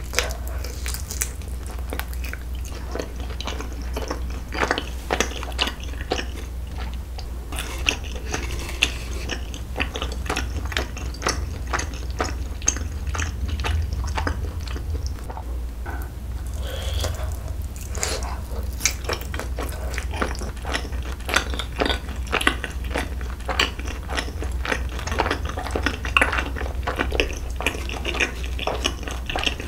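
Close-miked chewing and biting of a skewer of rice cakes and minced-beef patty (tteokgalbi), with many small, irregular wet clicks and crackles. A steady low hum runs underneath.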